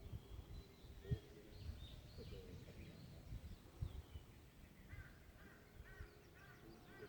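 Faint birdsong in a pine forest: scattered high calls, then a bird repeating a short arched call several times near the end. Low rumbles and bumps underneath, the loudest about a second in.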